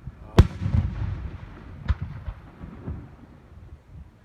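Aerial fireworks shells bursting: one sharp loud bang about half a second in with a low rumble trailing after it, then a few smaller bangs around two and three seconds in.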